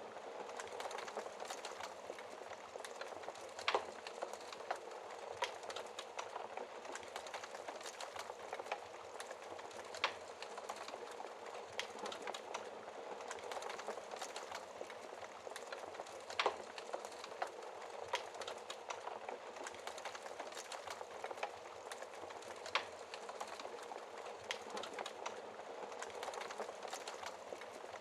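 Wood fire burning in a fireplace: a steady hiss with irregular sharp crackles and pops, the loudest about 4, 10, 16 and 23 seconds in.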